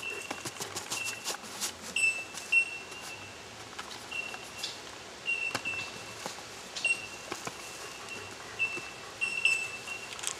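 A small bird repeating a short, high, beep-like chirp at irregular intervals of about a second, with scattered sharp clicks and taps.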